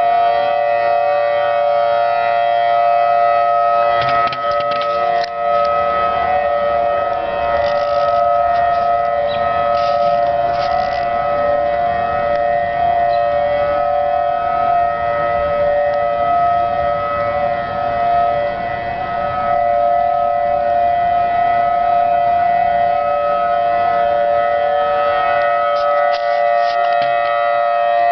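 Outdoor tornado warning siren sounding a loud, steady, unbroken tone, a warning that a tornado has been reported or detected nearby.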